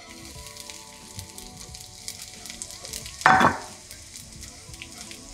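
Dried anchovies sizzling and crackling in hot oil in a frying pan as they are scraped in and stirred with a spatula. A short, louder scrape of the utensil about three seconds in.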